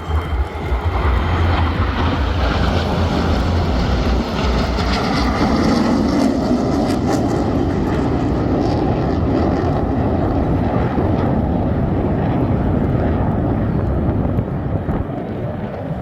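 Jet engine roar from Black Eagles KAI T-50B jets passing in the display. It builds about a second in, runs loud and steady with a hissing edge through the middle, and eases off near the end.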